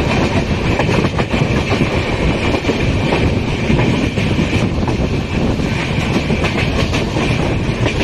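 Express passenger train running along the track, heard from an open door of one of its coaches: a steady, loud rumble of the coach with the clickety-clack of wheels over the rails.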